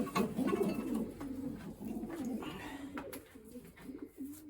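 Racing pigeons cooing over and over in low, wavering tones, with a few light clicks.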